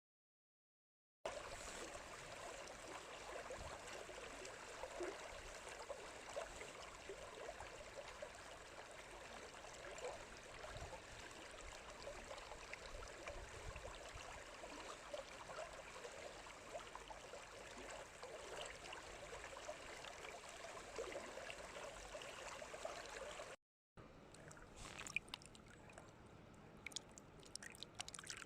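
Water running and babbling in a stream, steady. Near the end it cuts off abruptly and gives way to a quieter scene with scattered sharp clicks.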